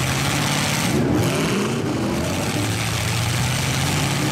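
Several demolition derby truck engines running together, one revving with its pitch rising about a second in, over a steady wash of engine noise.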